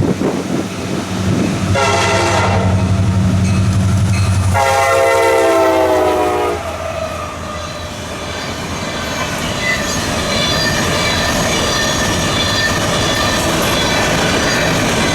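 CSX SD70MAC diesel locomotive passing and sounding its horn: a short blast about two seconds in, then a longer blast whose pitch drops as the locomotive goes by, over the rumble of its engine. After that the freight cars roll past with steady wheel noise and a faint squeal.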